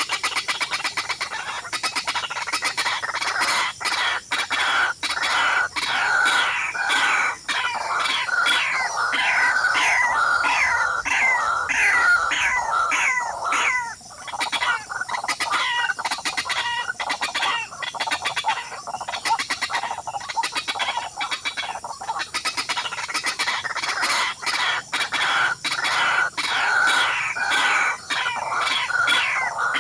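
Fowl clucking and calling in a rapid, continuous string of short sweeping notes, several a second, with a brief lull about fourteen seconds in.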